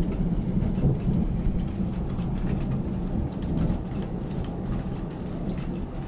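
Thunder from an approaching thunderstorm, a continuous low rolling rumble that eases slightly toward the end, with faint scattered ticks over it.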